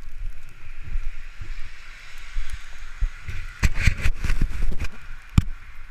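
Wind buffeting the camera's microphone with low thumps, under a scraping hiss in the snow. A quick run of knocks and crunches comes about three and a half to five seconds in, and one sharp knock follows near the end.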